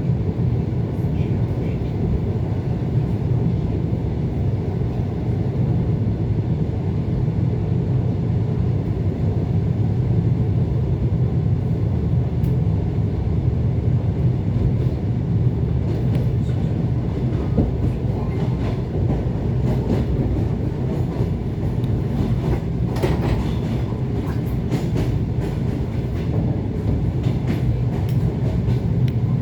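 ET2 electric multiple unit running at speed between stations: a steady low rumble of wheels on rail, heard from inside the carriage. Scattered short clicks come in over the second half.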